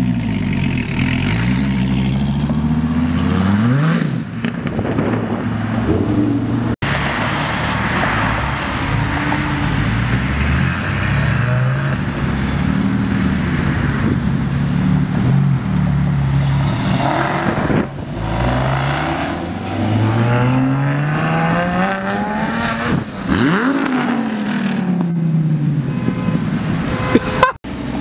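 Performance car engines revving and accelerating hard, their pitch climbing through the gears and dropping as cars pass, in several short takes cut one after another.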